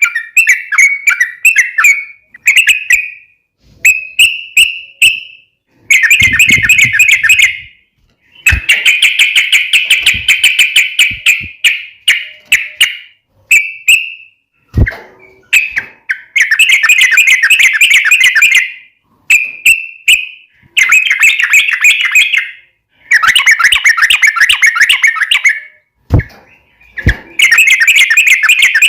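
Yellow-vented bulbul (cucak trucuk) singing vigorously: loud, rapid chattering phrases of one to three seconds each, repeated with short pauses between them.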